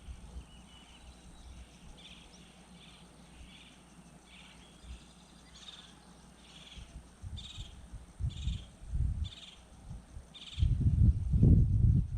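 A bird calling a long series of short, high notes, a little under two a second. Near the end a loud, uneven low rumble takes over.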